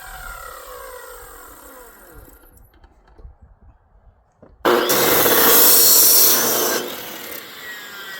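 A power saw's motor winding down with a falling whine, then a short lull. About four and a half seconds in comes a sudden, loud cut lasting about two seconds, which eases off as the motor spins down again.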